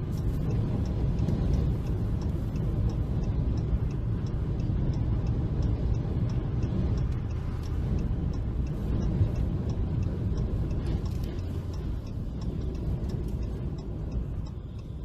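Car on the move: a steady low rumble of engine and road noise, with a faint ticking about twice a second.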